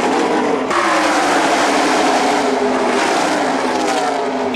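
A pack of NASCAR Truck Series race trucks running at full speed, their V8 engines making a loud, steady drone whose pitch slides slowly downward. The sound changes abruptly under a second in.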